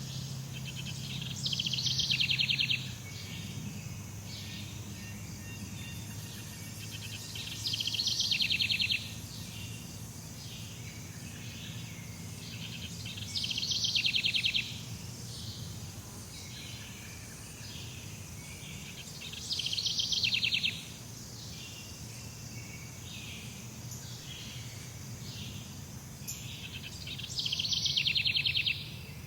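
Jungle ambience: a rapidly pulsing, trilling animal call repeats five times, about every six to eight seconds, over a constant high insect-like chorus and a low steady hum.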